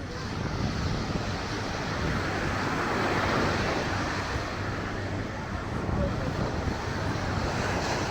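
Steady outdoor noise of road traffic and surf, with wind on the microphone and scattered voices; the noise swells and fades about three seconds in.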